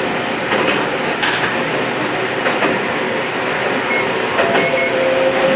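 Toyama Chiho Railway 14760-series electric train running, with a steady rumble and irregular clicks from the wheels over the track. Brief thin squeals come from the wheels about four seconds in.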